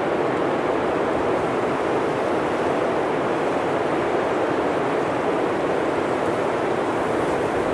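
Blizzard wind blowing steadily: an even rushing noise that holds the same level throughout, with no distinct gusts.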